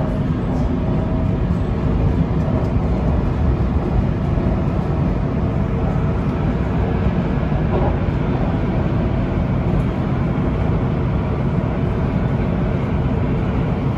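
Steady rumble of a Siemens Inspiro metro train running at speed, heard from on board.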